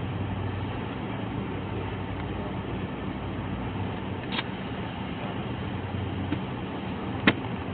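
A vehicle engine idling with a steady low hum, with a sharp click about four seconds in and a louder one near the end.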